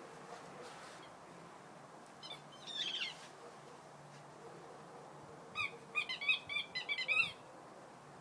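Latex squeaky toy squeaking as a Labrador chews it: a few squeaks about three seconds in, then a quick run of about ten squeaks near the end.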